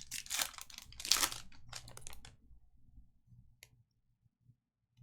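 Trading card pack wrapper crinkling and tearing as a pack is opened and the cards handled, a run of rustles over the first two seconds or so, then a single click.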